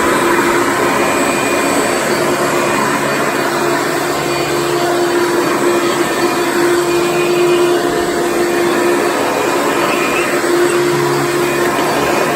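Hoover Convertible Soft & Light upright vacuum cleaner running steadily on carpet: a constant motor whine with a held tone over the rush of airflow.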